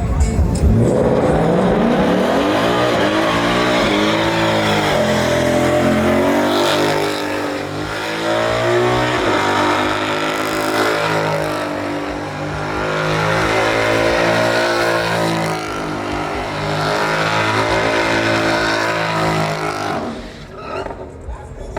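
Truck engine held at high revs during a burnout, rising and falling in pitch over the first few seconds and then held high, with tyres spinning. It drops away about twenty seconds in.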